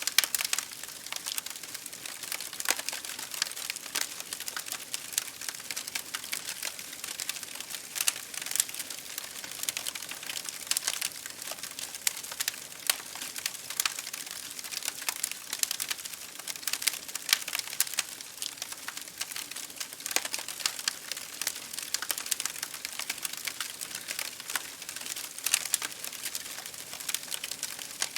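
Wood fire crackling in a fireplace, a dense, irregular run of small pops and snaps, over a steady hiss of rain against a window pane.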